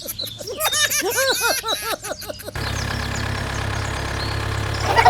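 A run of quick, high, squeaky chirps, then a vehicle engine starts running steadily about two and a half seconds in.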